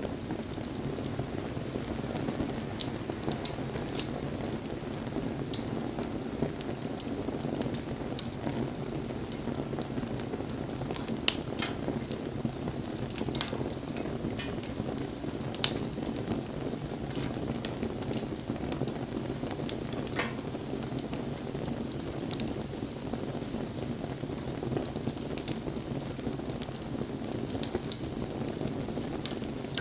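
Wood bonfire burning: a steady low rush of flames with constant small crackles and a few sharp pops about a third and halfway through.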